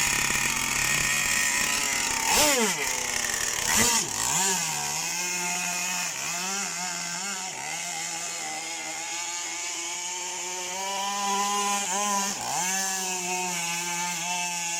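Small two-stroke petrol engine of a racing RC powerboat running at high revs, with a chainsaw-like buzz. Its pitch dips sharply and climbs back several times, about two and a half and four seconds in and again near the end, with smaller wobbles in between.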